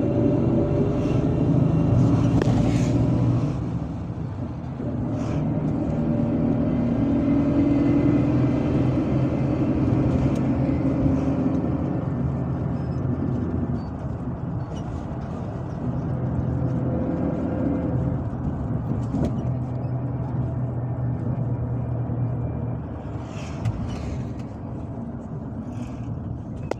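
MAZ-257 bus heard from inside the passenger cabin while under way: the engine's pitch rises as it accelerates near the start, then it runs steadily over road and tyre noise. A few short clicks or rattles come near the end.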